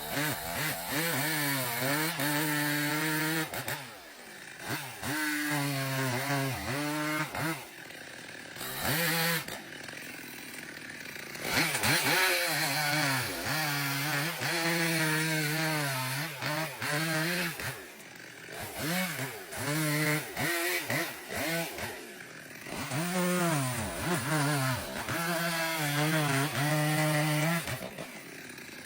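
Chainsaw engine revving up and down again and again, its pitch swooping as it speeds up and slows, with a few short lulls where it drops back.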